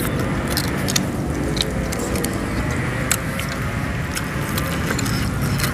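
Close-up chewing and crunching of food, many short sharp clicks, over a steady background rumble.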